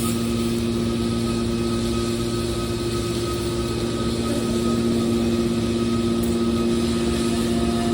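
Aluminium can baler running: a steady machine hum with a constant low drone and a noise layer above it, unchanging throughout.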